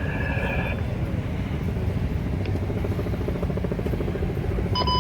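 Heavy vehicle engine rumbling steadily amid traffic. A steady high tone cuts off under a second in, and a short electronic beep sounds near the end.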